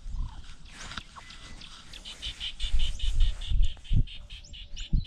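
A bird calling in a fast run of repeated high chirps, about five a second for nearly three seconds, over several loud low thumps.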